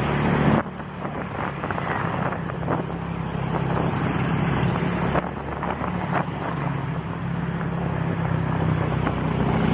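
Honda Click scooter's single-cylinder engine running steadily under way through an aftermarket exhaust pipe, with wind noise on the microphone. The level dips briefly about half a second in.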